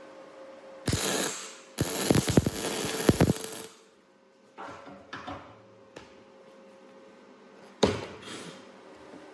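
Workshop tool-handling noise: a short rasp about a second in, then about two seconds of rapid mechanical clicking and knocking, and one sharp knock near the end, over a faint steady hum.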